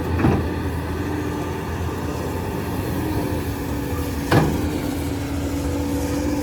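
Excavator's diesel engine and hydraulics running steadily, with two sharp knocks, one just after the start and a louder one about four seconds in.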